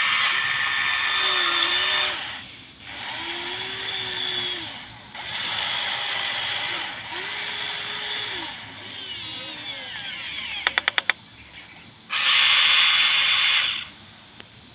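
Huina 1593 radio-controlled excavator's small electric motors whirring in short bursts as the arm and bucket are worked, with a faint whine that glides up and down in pitch. A quick run of clicks comes late on, and a louder burst of motor noise near the end.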